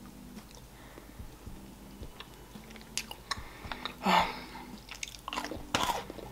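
Close-miked chewing of chocolate, with soft wet mouth clicks, and a short vocal sound from the eater about four seconds in.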